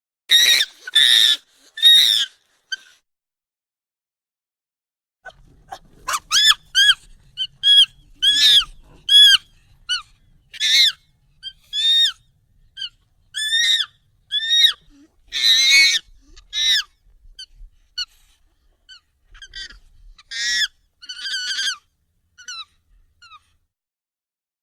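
Monkey calls, sped up and raised in pitch: three quick high calls, a pause of about three seconds, then a long run of short arching calls, one to two a second, thinning out near the end.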